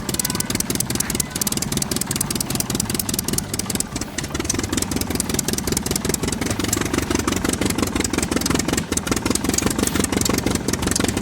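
A vehicle engine running steadily, a rapid even chugging pulse.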